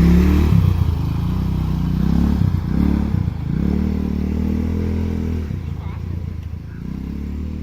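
Small go-kart engine running and revving, its pitch rising and falling several times, then fading somewhat after about five seconds.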